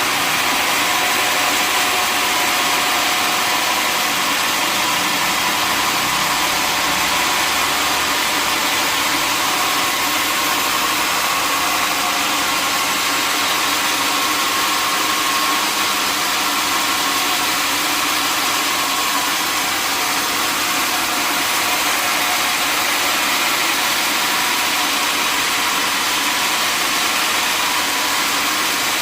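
Sawmill machinery running steadily: a continuous mechanical drone with faint steady whining tones and no change in pitch or level.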